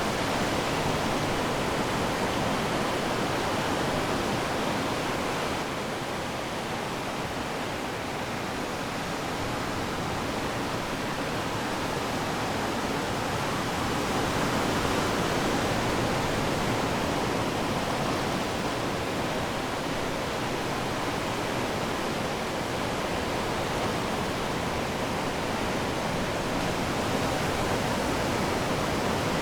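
Ocean surf washing steadily onto the shore, a continuous rush with gentle swells in loudness.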